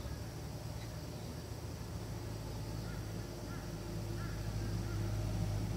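Small birds chirping in short repeated clusters of high chirps, over a steady low hum.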